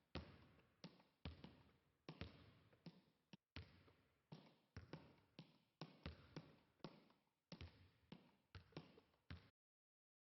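A quiet series of sharp knocks, about two or three a second at uneven spacing, each with a short ringing tail; they cut off suddenly near the end.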